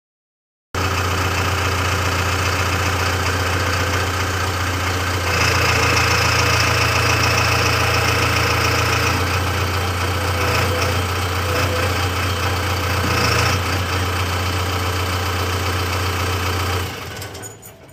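Heavy diesel engine running steadily, a deep hum that grows a little louder for several seconds in the middle and drops away near the end.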